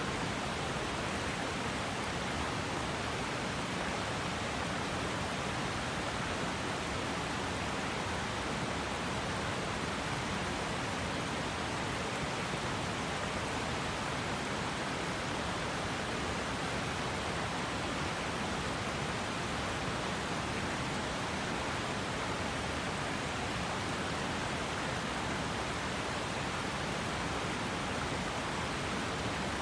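River water flowing in a steady, even rush that does not change.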